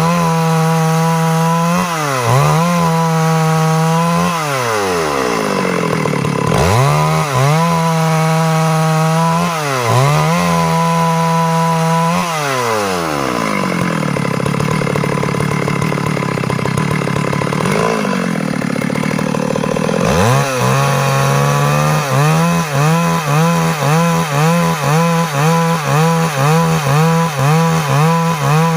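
Stihl MS 382 two-stroke chainsaw running at high revs while sawing wood, its pitch dipping and recovering several times. In the middle it drops to a lower run for several seconds, then revs back up and wavers quickly and regularly, about twice a second, near the end.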